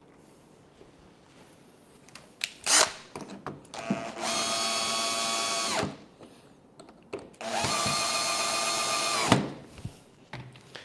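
Power drill running in two bursts of about two seconds each at a steady pitch, driving screws to refit the mini fridge's door. A sharp knock comes shortly before the first burst.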